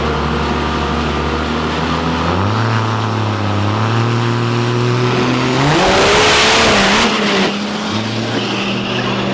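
Pro Mod drag-racing engines running at high revs, the pitch stepping up a few times. About six seconds in, a vehicle passes close at full throttle: the loudest part, a rush that cuts off sharply about a second and a half later.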